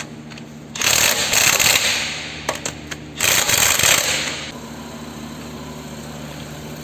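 Impact wrench running lug nuts down in two long bursts, over a steady low hum.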